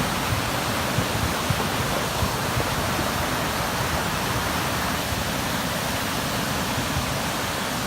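Swollen floodwater rushing steadily down a mountain stream. A few brief low knocks come through in the first few seconds, from boulders rolling in the current.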